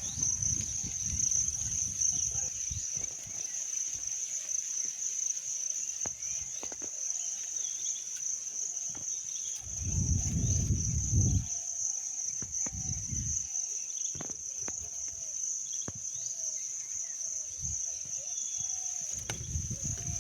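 A steady, high-pitched chorus of insects such as crickets, with low rumbles coming and going near the start, in the middle and near the end.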